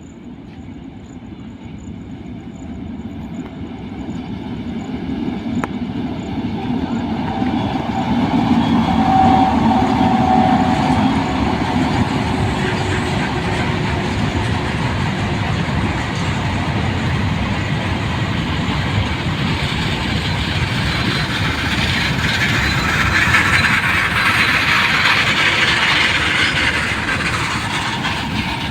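Train hauled by an electric locomotive approaching and passing at speed. The noise of wheels on rail builds over the first eight seconds or so, then holds as a steady loud rush and rattle as the train runs by.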